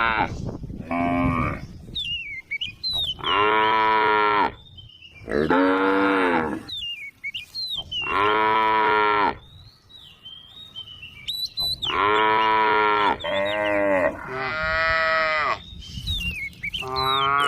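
Several cows mooing in turn, about eight long pitched moos of roughly a second each with short pauses between. Thin high chirps sound in the gaps between the moos.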